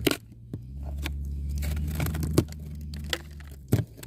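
Boots crunching and scraping through deep, light, fluffy snow, with several sharp knocks along the way. A low rumble on the microphone runs under most of it.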